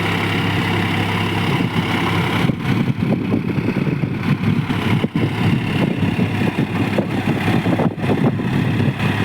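Tractor engine running. It is a steady hum at first, then becomes uneven and choppy from about two and a half seconds in.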